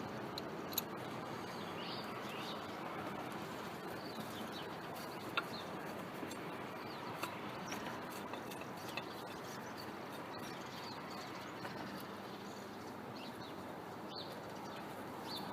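Birds chirping over a steady background hiss, with a few faint sharp clicks.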